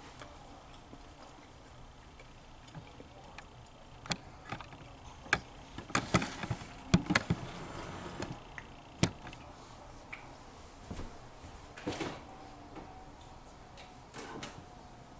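Scattered sharp clicks and taps from someone eating and handling takeout food and its containers. They grow busiest in the middle, with a few more later.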